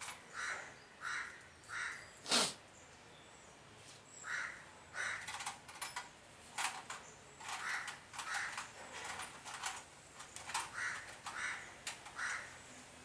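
A bird cawing over and over in short harsh calls, in several runs. A single sharp click about two and a half seconds in is the loudest sound, and fainter clicks come later.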